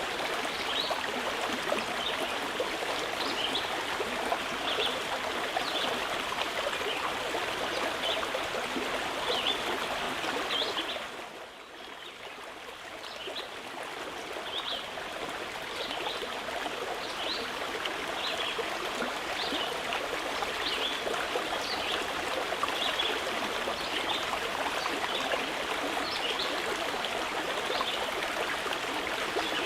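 Mountain river flowing steadily, with a small bird giving short high chirps about once a second over the rushing water. About 11 seconds in the whole sound dips quieter and swells back up over a few seconds.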